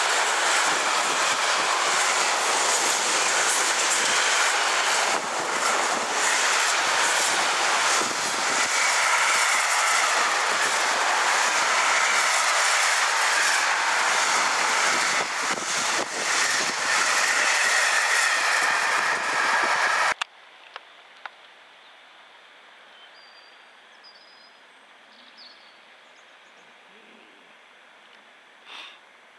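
Freight train of container and tank-container wagons passing at speed: a loud, steady rush of wheels on rail, dotted with clicks as the wheels cross rail joints. It cuts off suddenly about twenty seconds in, leaving only a faint background.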